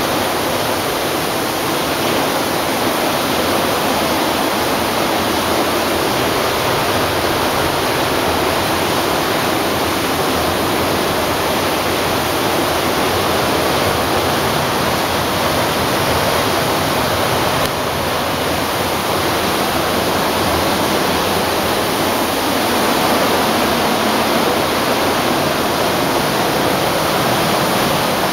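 Rain falling steadily, a loud, even hiss with no let-up.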